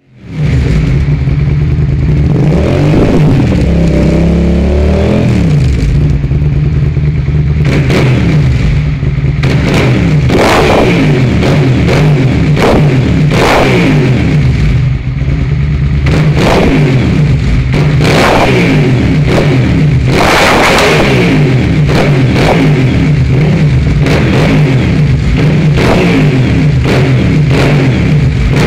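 Suzuki SV650's V-twin engine running through its exhaust. It rises in pitch once about three seconds in, then gets many short throttle blips, each a quick rise and fall.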